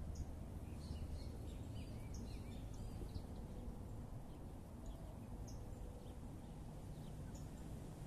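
Birds chirping in many short, high calls, thickest in the first three seconds and sparser afterwards, over a steady low rumble.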